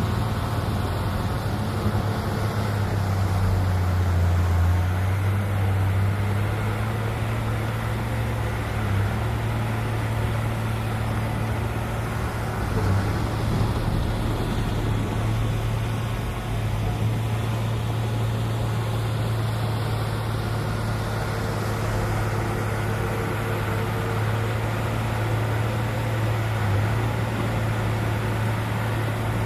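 Heavy diesel earthmoving machinery running steadily: a deep, even engine hum that barely changes in level.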